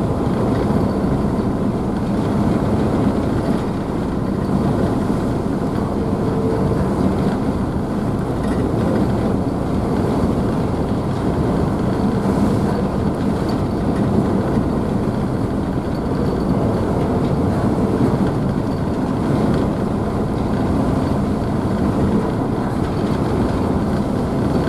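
Car ferry's engines running with a steady low drone and faint hum, mixed with the continuous churning and splash of the wake behind the stern.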